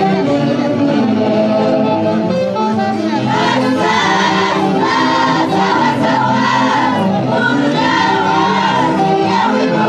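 Live music from a Peruvian festival orchestra playing a tune, with sustained held notes and, from about three and a half seconds in, a melody line that wavers in pitch.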